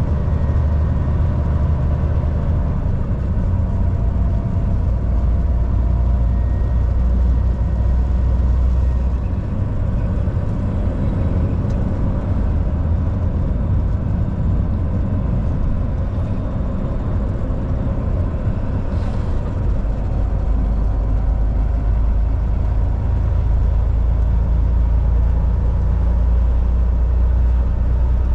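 Volvo VNL 760 semi truck's diesel engine running steadily while driving on the highway, a low rumble with road and tyre noise.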